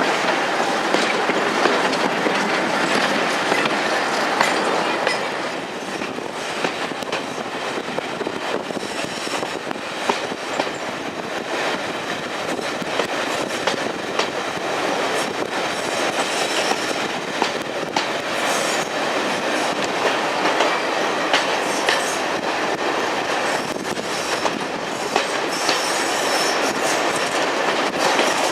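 Diesel-hauled heritage train running along the track: a steady rumble and rush of wheels on rail with scattered short clicks. It eases a little about five seconds in, then slowly builds again.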